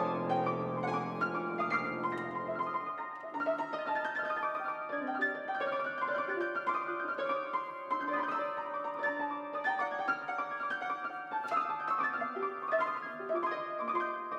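Solo piano improvisation. A low held chord cuts off about three seconds in, then a busy stream of quick notes runs on in the middle and upper register.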